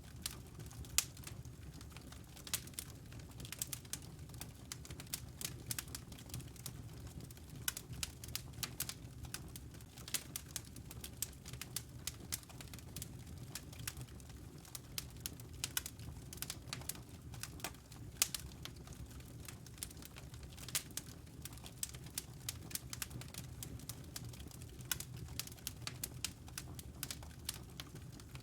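Wood fire crackling: dense, irregular snaps and pops, a few sharper than the rest, over a steady low rumble.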